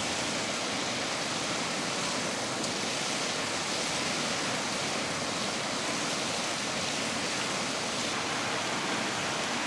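Mountain valley stream running steadily, an even rush of water.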